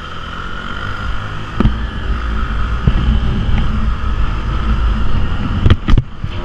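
Small motorcycle of under 150 cc running while being ridden, a steady low rumble with a couple of short thumps.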